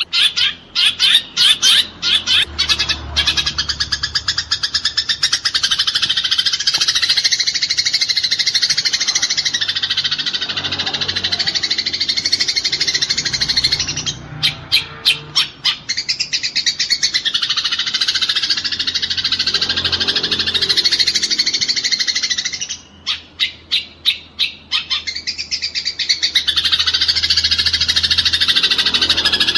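Eurasian tree sparrows giving a dense, rapid chatter of harsh calls, the excited calling of sparrows fighting. Three times the chatter breaks into a short run of separate quick notes: near the start, about halfway, and about three quarters through.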